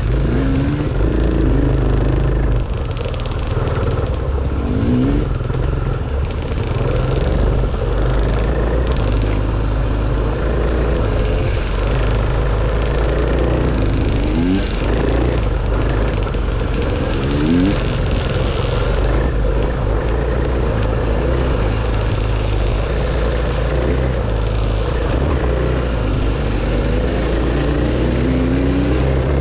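Dirt bike engine running under load while riding, its pitch rising in short bursts several times as the throttle is opened.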